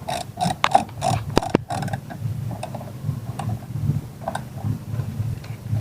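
Torque wrench ratchet clicking rapidly for about two seconds as a cover bolt is run down to 10 newton metres, with two sharper clicks in the middle. The clicks then thin out to a few scattered ones.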